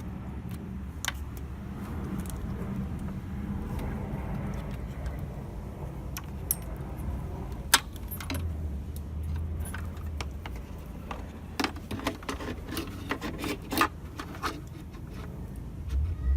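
A run of light metallic clinks and rattles, like keys or small hard parts being handled, heaviest in the second half, over a steady low hum.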